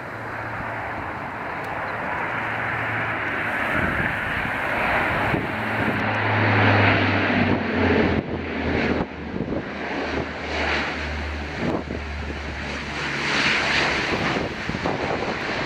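Saab 340B twin turboprop airliner on its landing pass, its General Electric CT7 turboprop engines and propellers droning loudly; the low propeller hum drops in pitch about eight seconds in as it goes by. Gusts of strong wind buffet the microphone over the engine sound.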